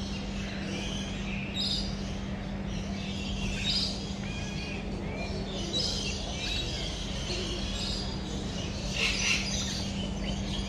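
Several birds chirping and calling in short clusters of high notes every second or so, over a steady low hum.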